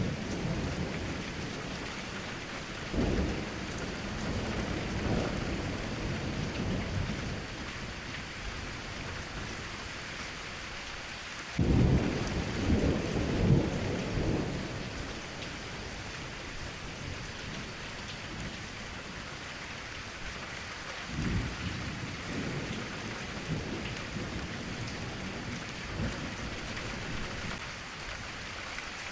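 Steady rain with rolling thunder. Several low rumbles swell and fade over the rain, the loudest a sudden clap about twelve seconds in that rolls on for a few seconds.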